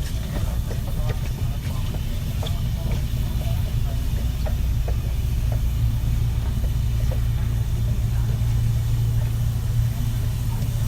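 Interior running noise of a Kintetsu 3220 series electric commuter train: a steady low rumble of wheels and running gear, a little stronger in the second half, with faint short ticks and rattles over it.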